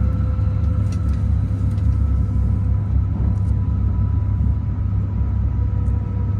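Interior of a Tohoku Shinkansen train running: a steady low rumble with a few faint steady tones over it.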